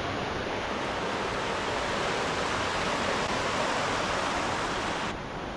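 Steady rush of flowing river water. The sound drops abruptly to a quieter, duller rush about five seconds in.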